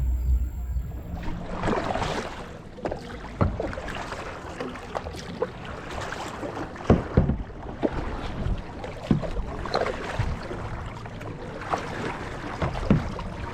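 Water sloshing and splashing around a small boat, with irregular sharp knocks. Background music cuts off about a second in.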